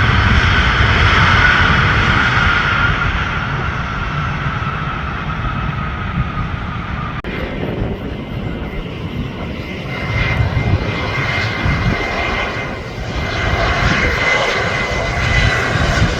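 Landing jet airliner's engines: a low rumble under a high whine that slowly falls in pitch. The sound breaks off suddenly about seven seconds in, and a second engine whine rises again from about ten seconds in.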